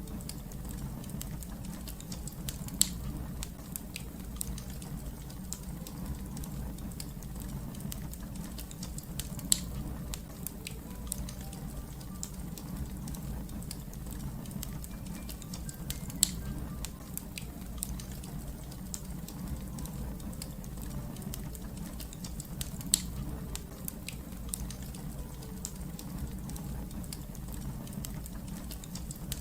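Wood fire crackling, many small snaps and clicks over a steady low rumble of the flames, with a sharper, louder pop about every six to seven seconds.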